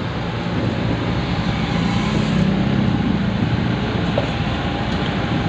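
Engine of working machinery running steadily, with a low drone that rises a little in the middle.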